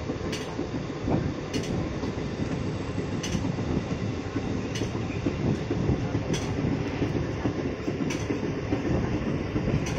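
Passenger train running, heard from an open coach doorway: a steady rumble of wheels on the track, with a sharp click every second or two.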